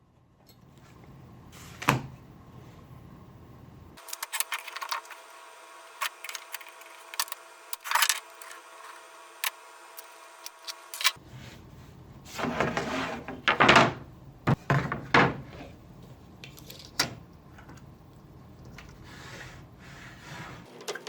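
Wooden pieces and hand tools being handled: scattered knocks and clacks of wood, with a few short noisy strokes a little past the middle.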